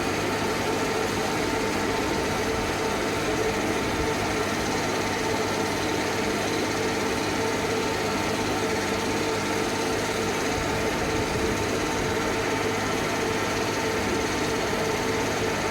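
Sierra 6000 logger baler's power unit and hydraulics running steadily, a constant mechanical hum with a steady whine.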